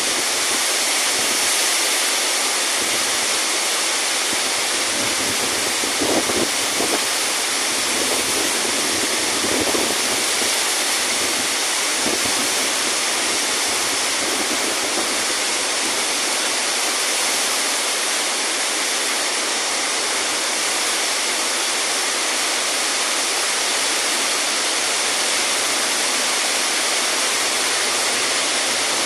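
Heavy rain falling, a loud, steady hiss, with a few short low thuds between about six and twelve seconds in.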